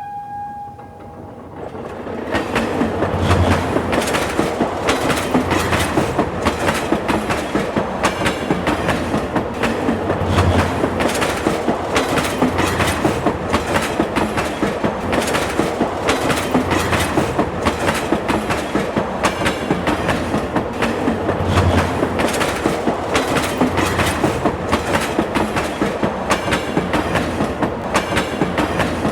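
Train running along the track, its wheels clattering over rail joints in a rapid, even clickety-clack that builds over the first two seconds and then holds steady. A horn tone trails off in the first second.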